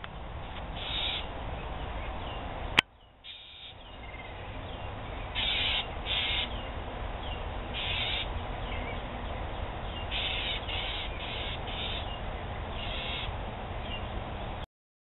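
A small bird giving about ten short, harsh scolding calls, some in quick runs, alarm-calling at a cat. A steady low rumble runs underneath, and there is one sharp click about three seconds in.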